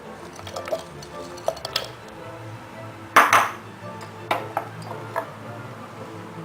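Clinks and knocks of kitchenware being handled while ingredients go into a blender, with a louder clatter about three seconds in, over background music.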